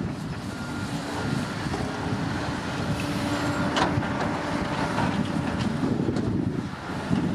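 Komatsu D65P crawler bulldozer's diesel engine running steadily under work, with one sharp metallic clank about four seconds in.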